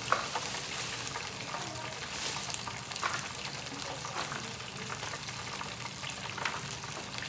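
Hot oil in a deep fryer sizzling steadily around battered seafood, with scattered small crackles and pops.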